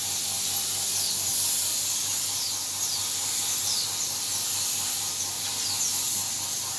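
Steady hiss of a compressed-air paint spray gun laying on clear coat, over a low steady hum. Short, high, falling chirps come through it at irregular intervals.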